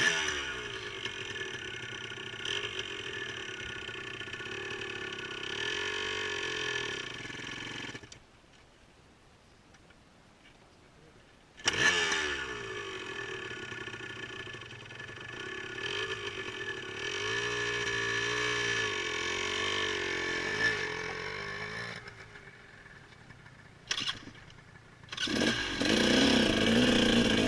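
Off-road motorcycle engine running at low revs with the pitch rising and falling under the throttle; it cuts out about 8 s in, starts again about 4 s later, falls away again near 22 s and picks up loudest from about 25 s. The cut-outs come after the rider was told it needed more throttle, typical of stalling at too little throttle.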